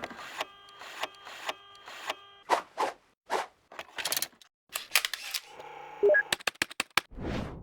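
A run of sharp clicks and short swishing effects, over a faint held electronic chord for the first two seconds or so.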